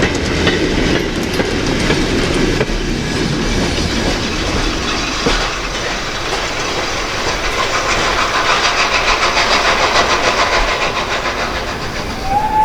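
A steam-hauled train passing, its wheels clattering in a rapid rhythm over the rail joints.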